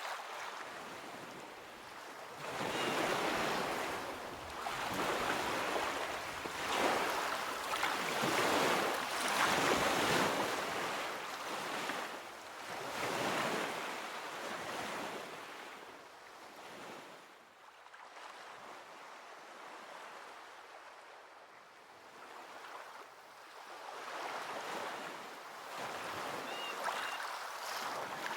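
Ocean surf crashing and washing up a beach in a series of swelling waves. The waves are loudest over the first half, ease off for several seconds past the middle, and build again near the end.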